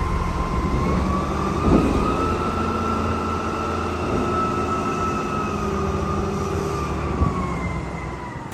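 A heavy vehicle's low rumble with a long high-pitched squeal that slides slowly up in pitch, holds, and eases back down near the end.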